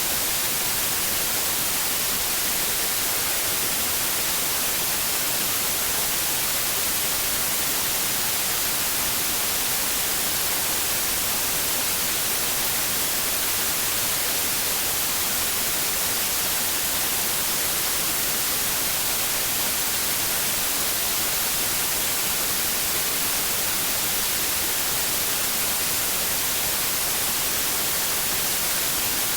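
White noise: a steady, unchanging hiss, strongest in the high frequencies.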